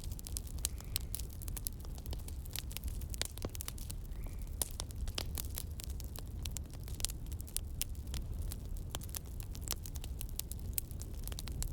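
Campfire wood crackling: many quick, irregular pops and snaps over a steady low rumble.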